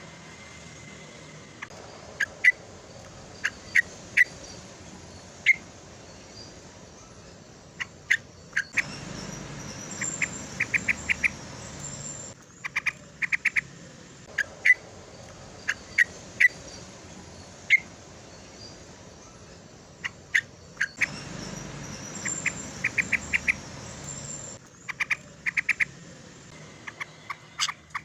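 Yellow-vented bulbul (cucak terucuk) calling, a lure recording of its challenge call to rivals: short sharp chirps broken by quick runs of four or five notes. The same passage repeats about every twelve seconds.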